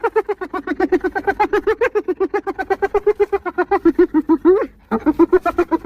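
Spotted hyena giggling: a long run of rapid, high-pitched yelping notes, about seven or eight a second. It breaks off briefly near the end and starts again.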